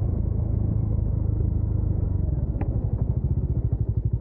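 Bajaj Dominar 400's single-cylinder engine running under way, heard from the rider's seat. About halfway through, its separate firing beats start to stand out as a fast, even pulsing.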